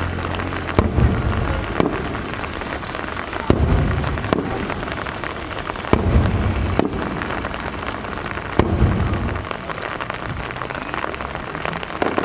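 Fireworks shells bursting overhead, about seven sharp bangs each trailing into a low rumble, over a steady hiss of rain falling.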